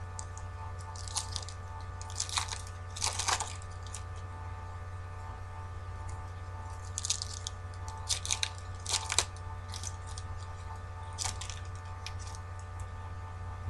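Crinkling and rustling as trading card packs and cards are handled: about seven short, sharp crinkles in irregular clusters, over a steady electrical hum.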